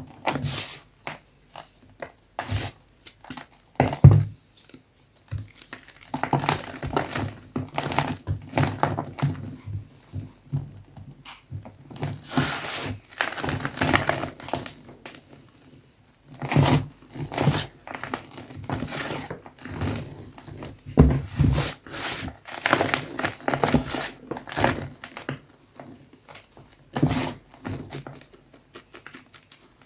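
Soft blocks of gym chalk being crushed and crumbled, giving an irregular run of dry crunches and crackles with occasional heavier thumps, the loudest about four seconds in.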